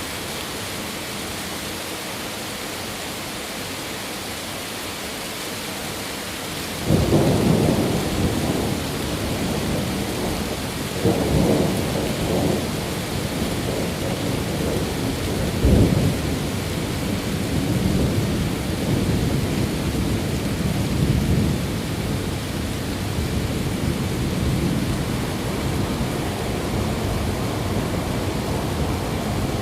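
Steady rain hiss, then about seven seconds in a sudden clap of thunder breaks in and rolls on as a long low rumble, swelling again twice before settling into continued rumbling under the rain.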